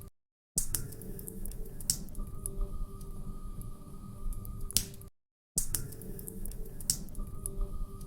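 Log fire crackling in a fireplace, with irregular sharp pops and snaps over a low rumble of burning. The sound cuts out to silence for about half a second twice, near the start and about five seconds in, like the seam of a looped recording.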